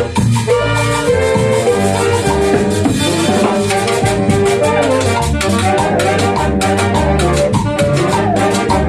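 Band music: horns play a melody over percussion with a steady, driving beat.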